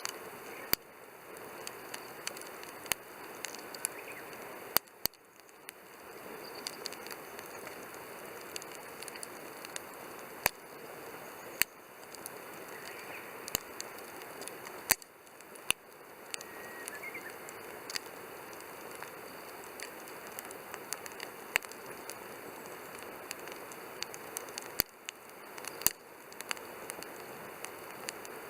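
Wood fire burning in a Coleman Fire Disk fire pit: a steady hiss of flame with irregular sharp pops and crackles, a few of them much louder snaps.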